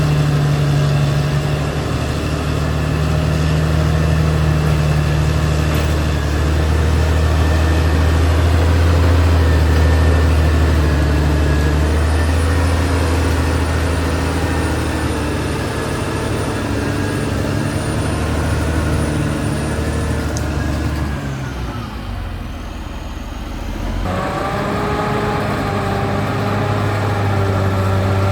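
Diesel engine of a Caterpillar D6R XL bulldozer running steadily with a deep drone while it works. About 21 seconds in the sound drops away for a couple of seconds, then the engine comes back at a different pitch.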